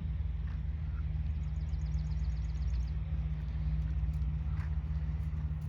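A steady low rumble, with faint thuds of a horse's hooves on the arena footing.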